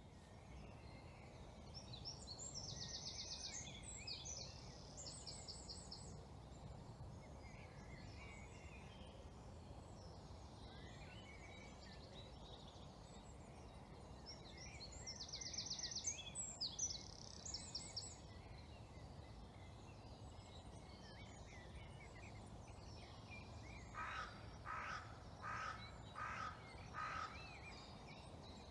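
Quiet woodland birdsong over a steady low background hush. A small songbird sings rapid high trills twice, about two seconds in and again about fifteen seconds in. Near the end a crow caws about five times.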